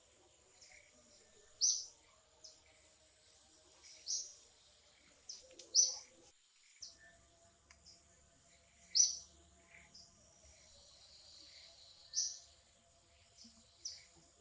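Birds chirping: short, sharp high calls repeated every second or two, over a faint steady high-pitched whine.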